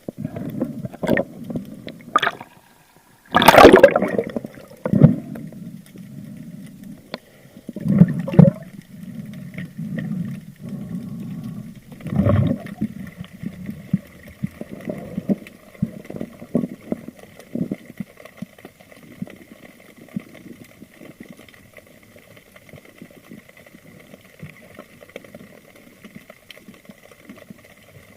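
Water sloshing and gurgling around a spearfisher's camera in the sea, heard muffled, with scattered knocks and a loud splash-like burst about three and a half seconds in, then calmer water noise with a faint steady whine.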